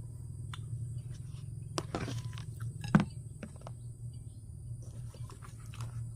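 Scattered small clicks and taps, with one sharper knock about three seconds in, over a steady low hum.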